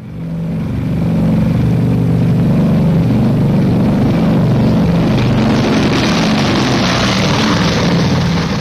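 Propeller aircraft's piston engines running, a steady drone with rushing noise that grows brighter toward the middle, fading in at the start.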